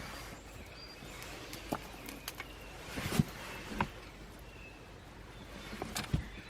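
A small wood fire of twigs burning in a wood stove, with irregular crackles and pops, the loudest about halfway through and near the end. Faint short bird chirps sound in the background.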